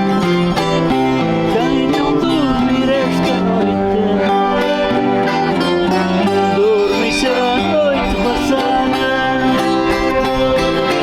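Live folk music of plucked string instruments and an accordion playing a steady tune together.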